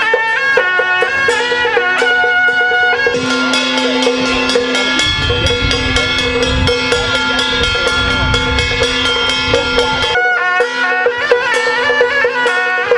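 Traditional temple ritual music: a reedy wind melody moving step by step over a held steady tone, with regular drum and percussion strikes. A low rumble comes in about five seconds in and drops away about ten seconds in.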